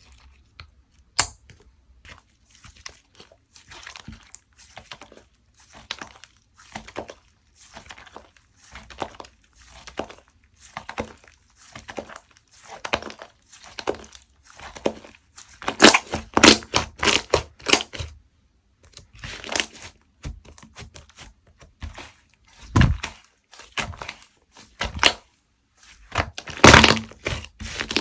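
Slime being poked, pressed and stretched by hand: a steady run of small sticky clicks and crackling pops, growing louder and denser in the second half.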